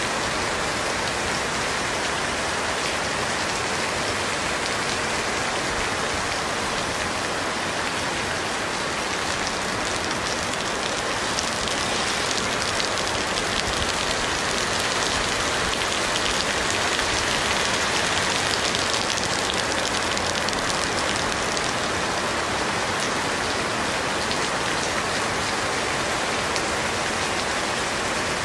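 Heavy rain falling on pavement and waterlogged ground, an even hiss that swells slightly in the middle.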